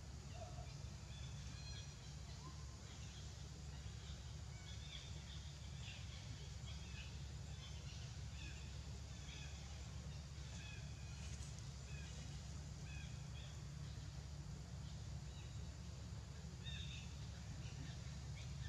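Small birds chirping in short, high calls scattered throughout, over a steady low rumble.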